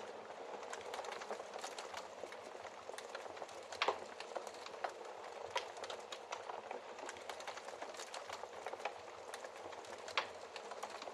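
Wood fire crackling in a fireplace: a steady hiss of burning with frequent small snaps, and two louder pops, one about four seconds in and one near the end.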